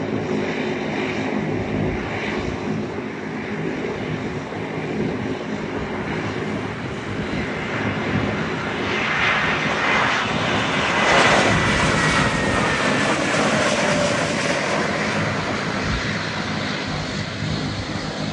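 Airbus A320 jet airliner coming in to land, its engines running with a steady rumble. The noise grows to its loudest a little past halfway through, with a falling whine as it passes, then eases off slightly.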